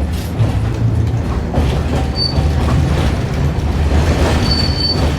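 Running sound inside Hiroden 650-type tram car No. 652 under way: a steady low rumble from the running gear with scattered knocks, and a thin high squeal twice, briefly about two seconds in and longer near the end.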